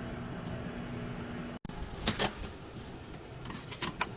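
Microwave oven running with a steady low hum, cut off abruptly about a second and a half in, followed by several sharp clicks and knocks.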